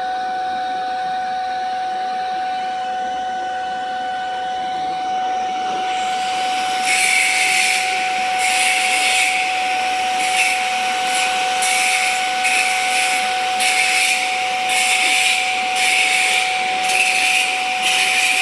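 Stick arc welding: from about seven seconds in, the arc crackles and hisses in short runs, starting and stopping roughly once a second, over a steady hum.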